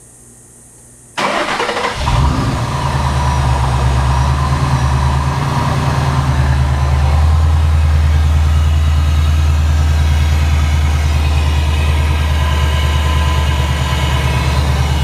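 Supercharged 2012 Ford Mustang GT's 5.0 V8 starting about a second in and settling into a steady idle. It is the first start after an oil change, run briefly to fill the new oil filter.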